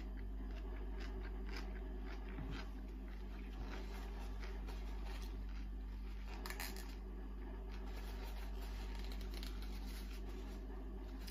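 Faint closed-mouth chewing of crunchy cucumber: small wet clicks and crunches, one a little louder about six and a half seconds in, over a steady low hum.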